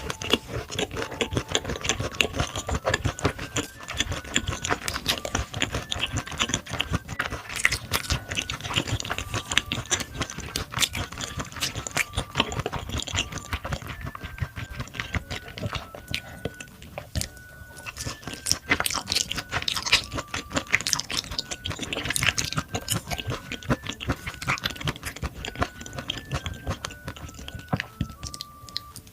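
Close-miked eating sounds: a person chewing and biting food in a rapid run of wet clicks and crunches, over a faint simple melody of background music.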